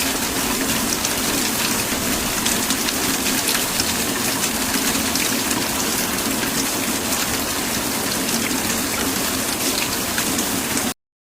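Steady heavy rainfall with many fine drop patters, which cuts off abruptly near the end.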